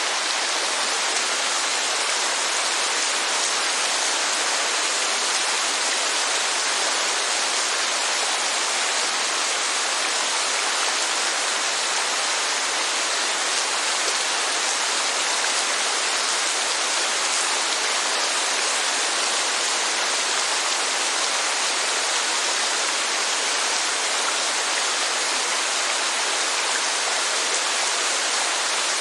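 Steady rainfall, an even hiss of rain that holds at one level throughout, with no breaks.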